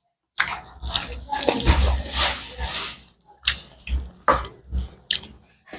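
Close-miked wet chewing and lip smacking of a mouthful of pork and rice: a dense run of wet mouth sounds for about two and a half seconds, then a handful of short separate smacks.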